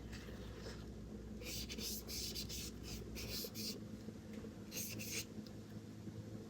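Paintbrush working acrylic paint on gesso-primed paper in short, soft strokes: a run of them about one and a half seconds in and a couple more near five seconds, over a faint steady room hum.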